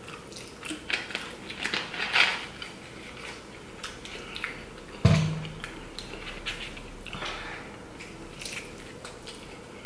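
Eating noises at close range: biting and chewing of pizza and chicken wings, with small clicks and handling sounds. About halfway through there is a single louder, brief low sound.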